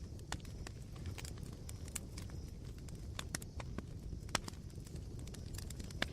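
Night campfire of smouldering embers crackling: irregular sharp pops and snaps, the loudest about four seconds in and near the end, over a low steady rumble.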